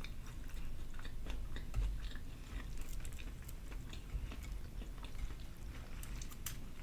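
Chewing of a fried chicken and donut sandwich: soft, irregular mouth clicks and smacks, a little stronger near the end.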